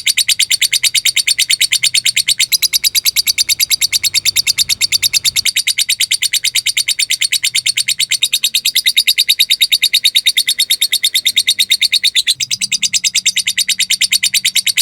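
Lovebird giving a long, unbroken 'ngekek' chatter: a fast, even string of shrill, high-pitched notes. This is the sustained chattering call that fighter lovebirds are kept and trained for.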